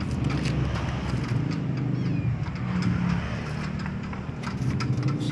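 A steady low engine drone whose pitch shifts slightly, with a faint short whistle-like glide about two seconds in.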